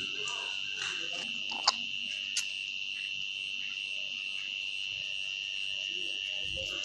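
A steady high-pitched insect drone, with two short, sharp, shrill calls about a second and a half and two and a half seconds in, which fit the black-capped lory.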